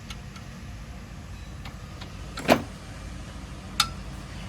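Toyota GLI engine idling steadily, with a few sharp metallic clinks on top, the loudest about two and a half seconds in.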